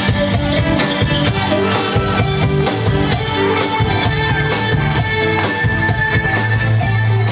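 Band music with electric guitar and a steady drum beat, an instrumental stretch with no singing.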